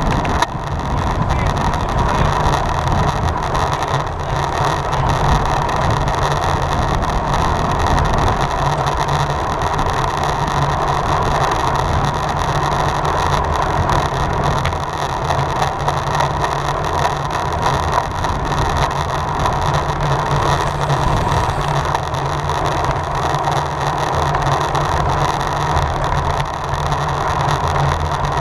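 Steady rush of wind and tyre noise from a road bicycle riding at speed, unbroken throughout.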